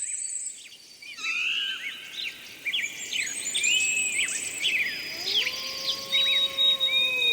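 Songbirds chirping and singing in a busy chorus of short, quick calls. About five seconds in, a wolf's howl slides up and then holds one long steady note beneath the birds.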